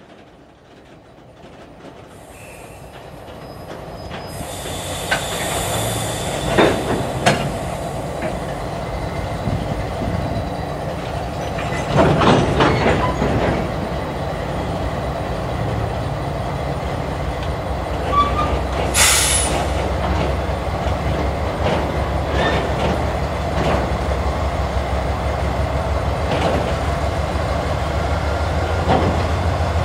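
A slow freight train of empty gondola cars rolls past, the sound growing louder over the first few seconds. Wheels clank on the rail joints with occasional sharp squeals. In the last third a low steady drone from the approaching CSX GE diesel locomotives (C40-9W and ES40DC) builds up.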